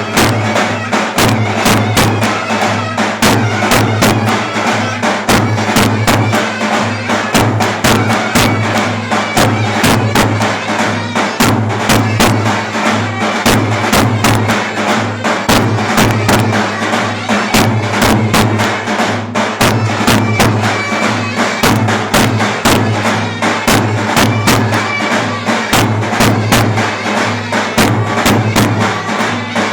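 Clarinet and davul playing Turkish folk dance music: a reedy, sustained clarinet melody over a fast, steady drumbeat.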